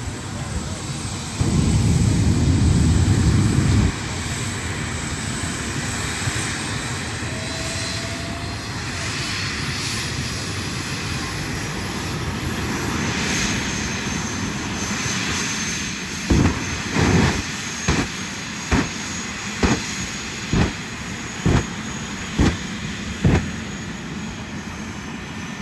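Jet truck's jet engine running with a faint high whine, with one loud blast lasting a couple of seconds near the start. In the last third comes a string of about ten short loud blasts, a little under a second apart.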